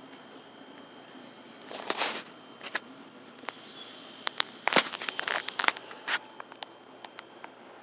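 Footsteps and rustling handling noise, scattered clicks with a few louder scuffs about two seconds in and again around the five-second mark.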